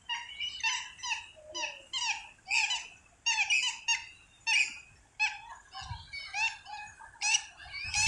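Birds calling: short chirping calls about twice a second, several overlapping.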